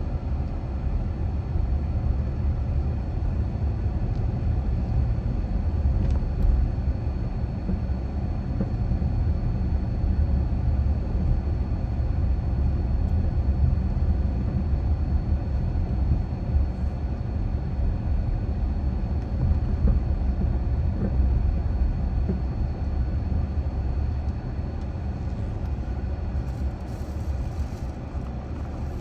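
Car driving, with a steady low rumble of road and engine noise and a faint steady high whine running through it.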